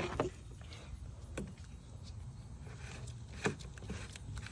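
A few short clicks and knocks of adapter caps from a radiator pressure tester kit being handled and tried for fit, over a steady low rumble.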